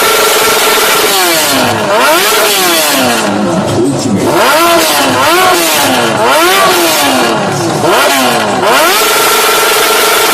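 Sport motorcycle engine held at a steady high rev, then revved down and up again and again, about once a second, before settling back to the steady rev near the end.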